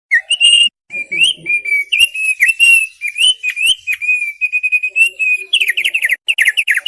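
Thick-billed heleia (opior paruh tebal) singing: a fast, varied run of clear whistled notes with short rising and falling slurs, ending in a quick string of falling chirps.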